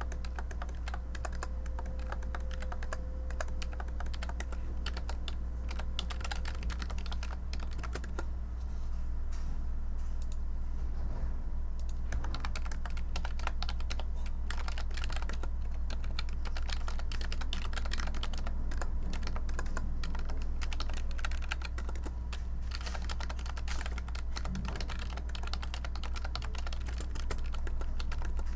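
Typing on a computer keyboard: a quick, continuous patter of key clicks with short lulls, over a steady low hum.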